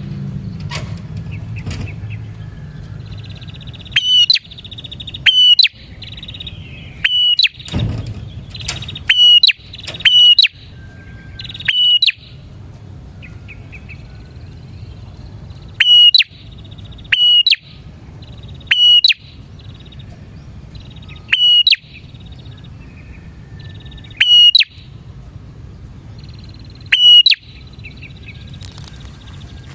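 A prinia (prenjak) calling loudly and persistently. Sharp, high call notes come about every one to two seconds, with a softer buzzy chatter between them.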